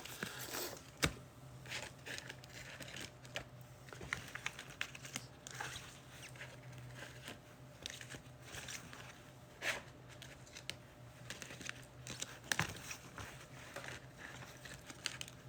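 Faint, scattered small clicks and light rustling of hands handling things at a desk, over a faint steady low hum.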